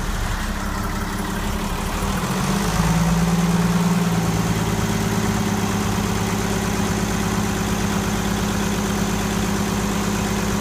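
Ford Lehman 120 six-cylinder marine diesel running steadily a little above idle on its test-fitted, rebuilt injection pump, with a slight change in tone and a little louder about three seconds in.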